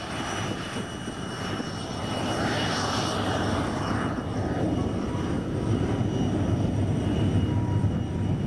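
Lockheed T-33 Shooting Star's single Allison J33 turbojet running: a steady jet rush with a high whine, growing gradually louder.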